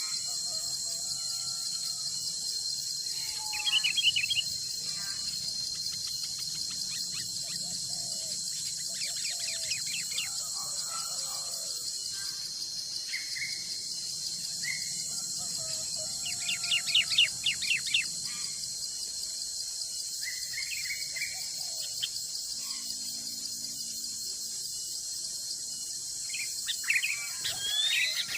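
Wild birds calling and chirping in scattered bursts, loudest about 4 seconds in, around the middle and near the end, over a steady high-pitched insect chorus.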